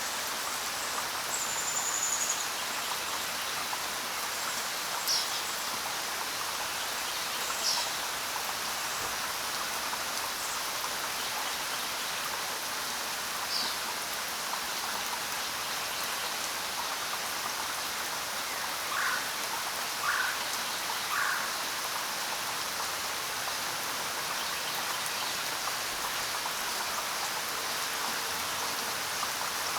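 Steady rain falling, with a few short bird chirps scattered through it and three brief notes about a second apart near the middle.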